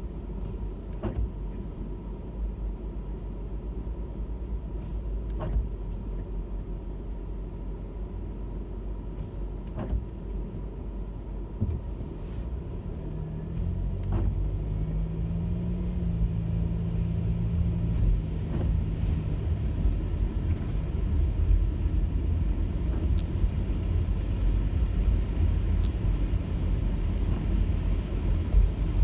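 Car driving: steady low road and engine rumble that grows louder about halfway through, with a pitched engine hum in the middle and faint ticks every few seconds.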